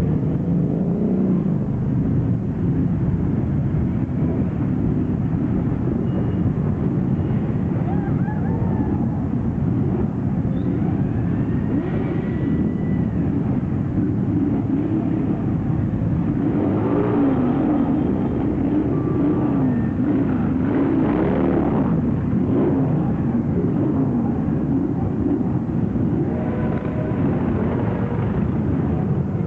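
A large group of motorcycles riding off together, their engines making a loud, dense, unbroken rumble. Single bikes can be heard revving up and down in the middle and again near the end.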